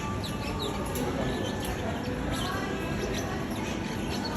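A parrot giving a few short, high chirps over a steady background noise.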